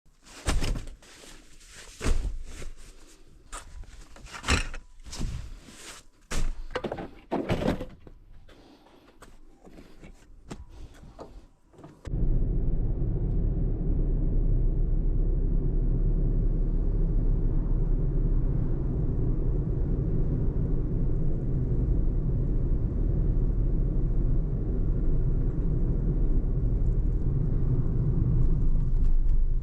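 A run of knocks and thumps, among them doors being shut. About twelve seconds in, a steady low rumble of a car driving sets in, heard from inside the cabin.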